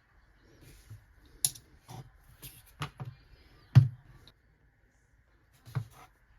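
Small metal parts and hand tools clicking and tapping on a workbench as they are handled: about eight irregular sharp clicks, the loudest a little under four seconds in, over a faint steady hum.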